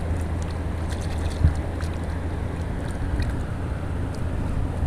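Steady rush of a river swollen after rain, mixed with wind buffeting the microphone.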